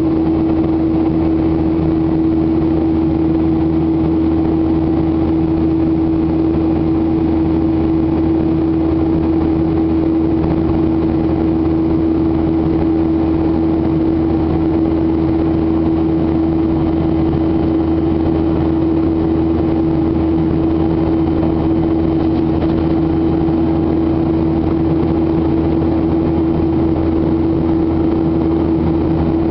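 Boeing 737-800's CFM56 engines and airflow droning steadily, heard inside the cabin in flight, with a strong steady hum.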